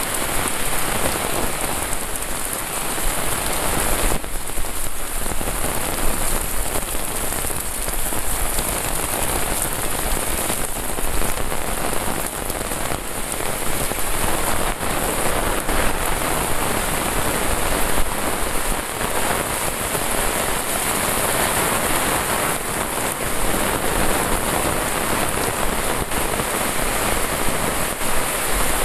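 Heavy rain pouring down steadily on a paved road and roadside vegetation: a dense, even hiss with many scattered drop hits.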